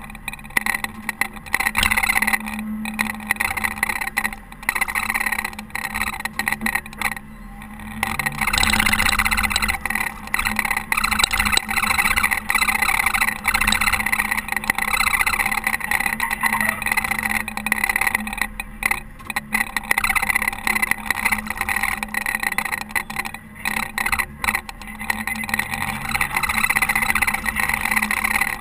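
Caterpillar TH330B telehandler's diesel engine running steadily while it plows snow, its loudness rising and falling as it works.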